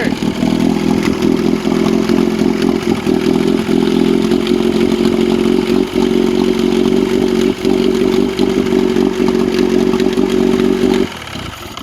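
Boat engine running steadily at a fast idle, then shut off abruptly about eleven seconds in.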